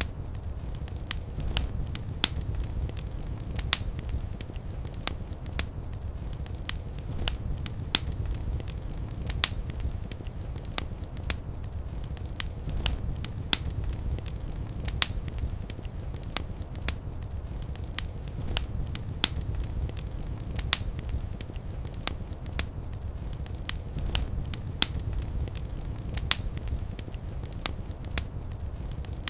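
Wood fire crackling steadily, with sharp irregular pops and snaps several times a second over a low, even rumble of the flames.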